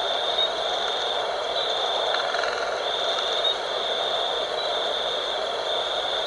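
Night wind blowing steadily, with a high thin trill running over it in long stretches broken by short gaps.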